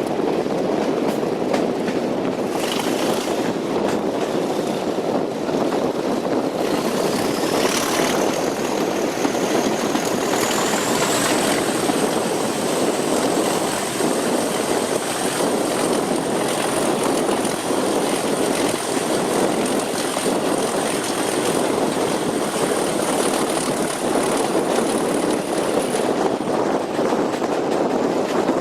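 Diesel locomotive running, with a thin high whine that climbs in pitch about six seconds in, then holds steady until it fades near the end.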